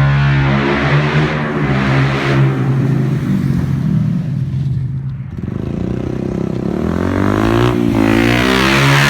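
Bajaj Pulsar 150's single-cylinder engine running through an aftermarket Tech Hardy shorty exhaust, very loud and revving. The revs fall away about halfway through, then climb again near the end.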